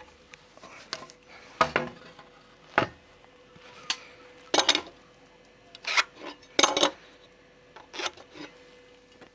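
Irregular metallic clinks and knocks of hand tools or hardware being picked up and set down, about seven in all, over a faint steady hum.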